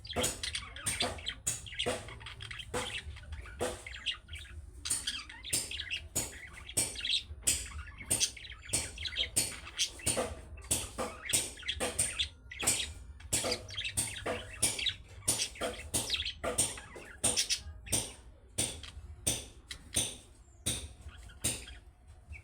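Budgerigars chattering: a rapid, unbroken run of short, sharp chirps and warbles, several a second, the calling-style song meant to set pet budgies answering. A steady low hum lies underneath.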